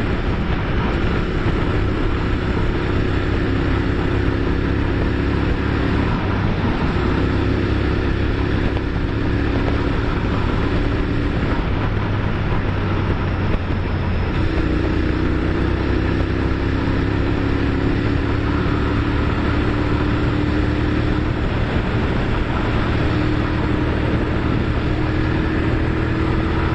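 Motorcycle engine running steadily while riding, its note climbing slowly and dropping back three or four times as it changes gear, over a constant rush of wind noise.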